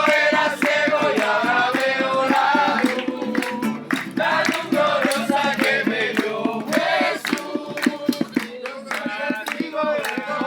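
A group of voices singing a praise song together, over a fast, steady beat of sharp percussive hits.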